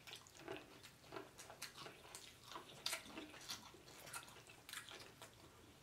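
Faint close-up mouth sounds of a person biting and chewing sauce-coated boiled corn on the cob: a string of small wet clicks and smacks, about two a second.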